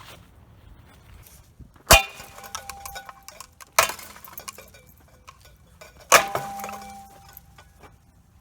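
Three sharp strikes against a Hampton Bay Littleton ceiling fan, about two seconds apart, each followed by a short clinking, metallic ring.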